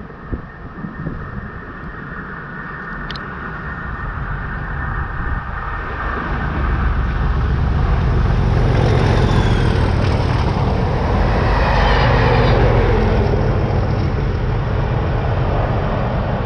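Class 37 diesel-hauled test train approaching: the locomotive's English Electric V12 engine and the rumble of wheels on rail grow louder from about six seconds in and stay loud.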